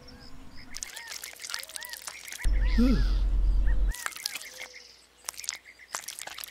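Small birds chirping, short repeated arched chirps with scattered clicks. About two and a half seconds in, a louder sound lasting over a second, with a low hum and a falling pitch.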